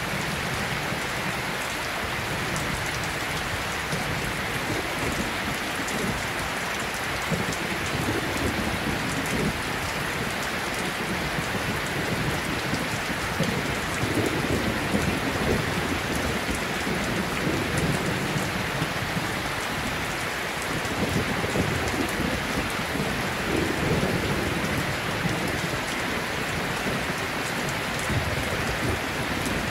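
Steady rain, with low rumbles of thunder that swell and fade several times.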